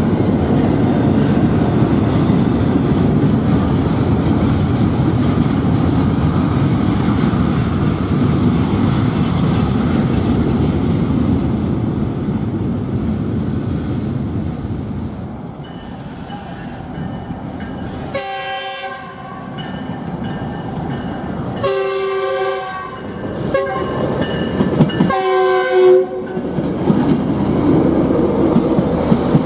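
A passing train's wheels running over the rails in a steady rumble that fades away. In the last third, a locomotive air horn sounds three separate blasts.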